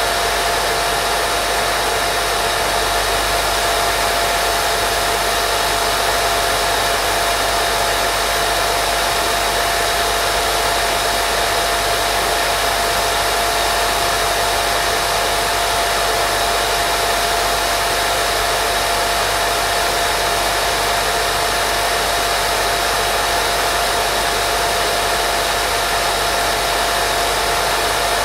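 Steady white noise for baby sleep: an even, unbroken hiss with a constant whirring tone running through it, like a hair dryer.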